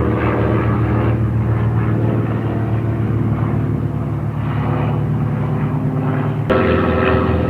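Steady drone of an aircraft engine, a low hum made of several steady tones, which changes abruptly about six and a half seconds in.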